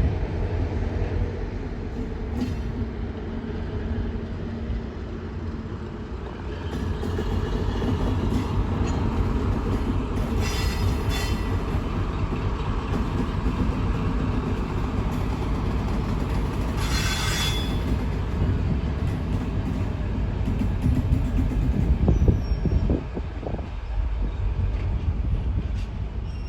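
A train running through the station without stopping: a steady rumble of wheels on the rails that builds from about six seconds in, with two brief high-pitched wheel squeals around the middle.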